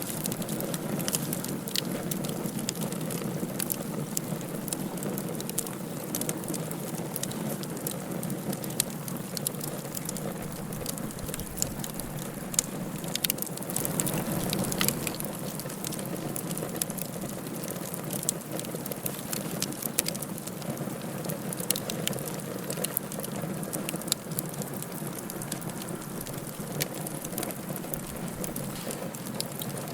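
Wood fire burning in a fireplace: a steady low rush of flames with frequent sharp crackles and pops.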